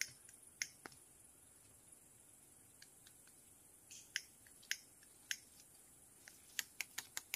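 Scattered faint clicks and scrapes of a small hand tool picking soil away from a wild ginseng root's fine rootlets, irregular and coming more often near the end.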